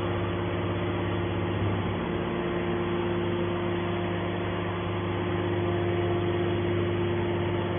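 Hydraulic metal scrap baler running, a steady machine hum with a constant low drone and a higher steady tone.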